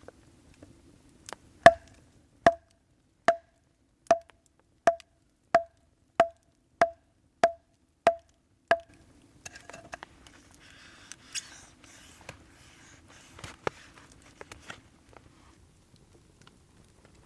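A run of about eleven sharp, evenly spaced knocks, each with a short ringing note, at roughly one and a half a second, followed by softer rustling.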